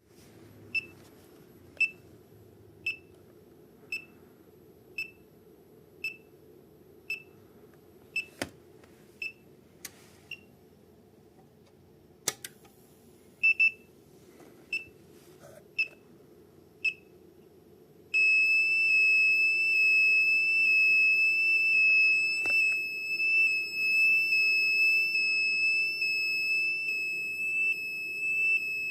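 Power supply tester's buzzer sounding an alarm: short high beeps about once a second, then from about two-thirds of the way in a loud, continuous high tone. The alarm signals abnormal voltage from the power supply. A few sharp clicks fall among the beeps.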